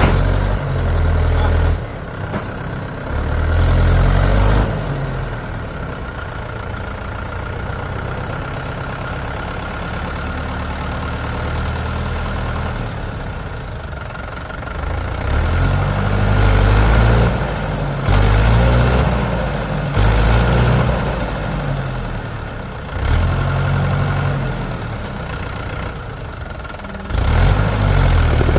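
Heavy diesel engine idling, revved up again and again in short surges of one to two seconds each.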